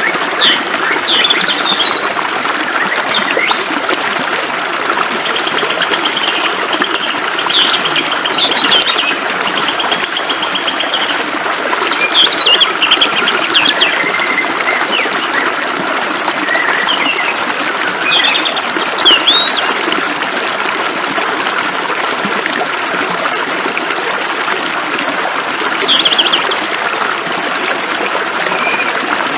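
Flowing water hissing steadily, with several birds singing over it in short trills and chirps scattered throughout.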